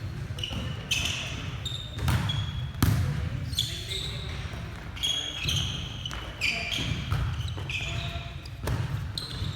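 Volleyball rally on an indoor court: repeated sharp smacks of the ball being hit and landing, short high squeaks, and players' voices over the murmur of the hall.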